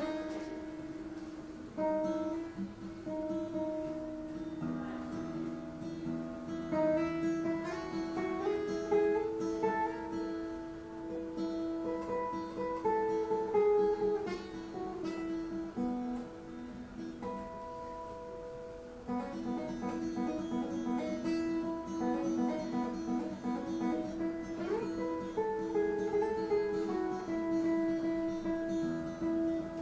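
Acoustic guitar playing a song's instrumental intro: picked and strummed chords with melodic runs. It goes softer for a few seconds past the middle, then picks up again.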